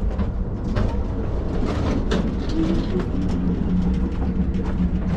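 Amtrak passenger train running, heard from inside the car: a steady low rumble with frequent knocks and rattles, and a low droning hum in the second half.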